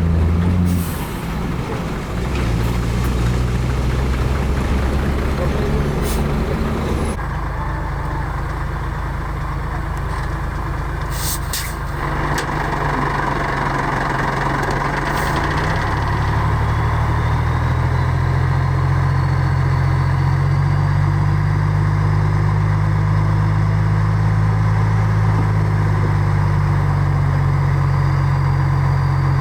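Heavy diesel engines of earth-moving machinery running steadily, with a few short air hisses about halfway through. The engine note swells and holds louder in the second half.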